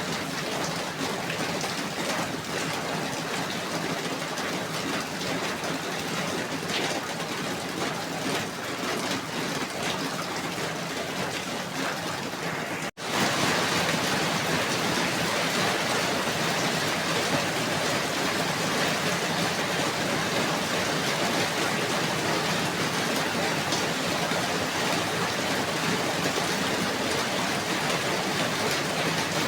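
Steady falling rain. It cuts out for an instant about 13 seconds in and comes back slightly louder, as at a splice between two recordings.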